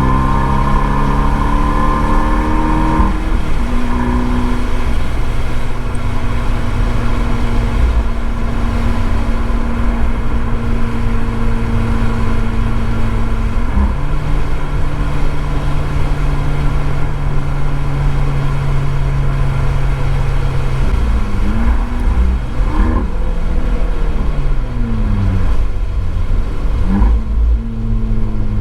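Abarth 595 Esseesse's turbocharged four-cylinder through an Akrapovič exhaust at speed on a wet track: the engine note rises and drops at a shift about three seconds in, holds a steady pitch with another step down near the middle, then falls through several downshifts with brief rises before pulling up again at the end. A steady rush of road and spray noise runs under it.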